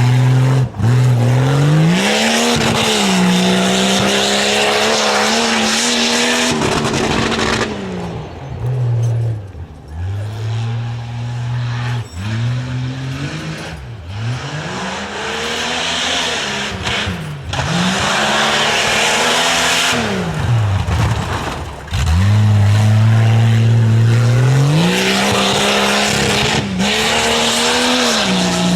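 Competition 4x4 tuff truck's engine revving hard and letting off again and again, the pitch climbing, holding and dropping several times as the driver works the throttle, with longer pulls at full revs near the start and near the end.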